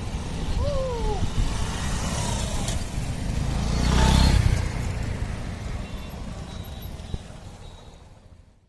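Road vehicle noise: a steady low rumble, swelling to its loudest about four seconds in, then fading away near the end. A short rising-and-falling tone sounds about a second in.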